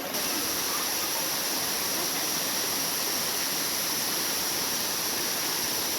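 Waterfall pouring: a steady, even rush of falling water that gets slightly louder just after it begins.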